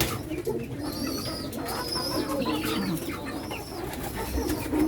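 Domestic pigeons cooing, with short high-pitched peeps from other birds.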